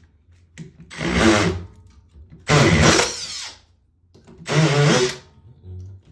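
Hammer drill fitted with a titanium bit, triggered in three short bursts of about a second each. The motor spins up and winds down each time.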